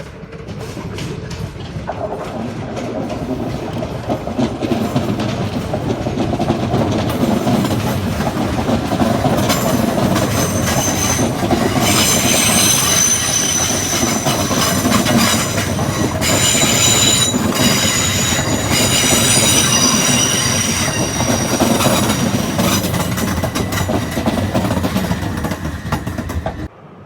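A passenger train's wheels running on the track, building up over the first few seconds. From about halfway in, high steady wheel squeal sounds over the rumble, and the sound cuts off suddenly near the end.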